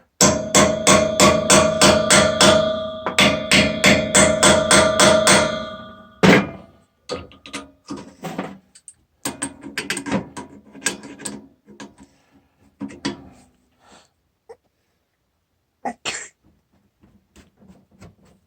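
Hammer striking an easy-out (screw extractor) to drive it into a broken-off steel pipe fitting, resetting it after it slipped: two quick runs of about four ringing metal blows a second with a short pause between them, then one harder blow. Lighter scattered knocks and clicks follow.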